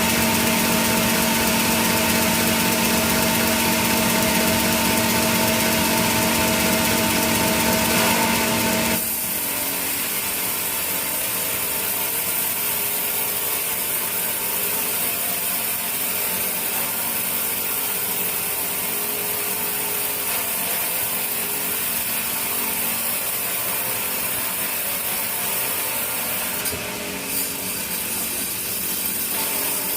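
Sawmill saw machinery running while sawing teak wood. For the first nine seconds a steady hum with a few held tones runs under the noise, then the sound changes abruptly to an even, hissing sawing noise.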